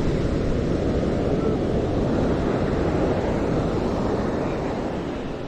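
Ocean surf washing on the beach, with wind buffeting the microphone; the steady roar eases slightly near the end.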